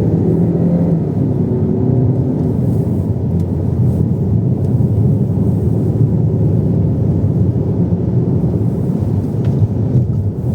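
Steady low rumble of a car's tyres and engine while driving, heard from inside the cabin.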